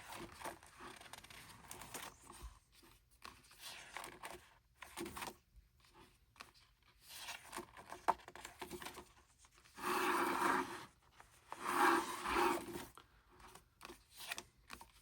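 Paper handling as the pages of a photobook are turned, with scattered soft rustles and two louder paper swishes about ten and twelve seconds in.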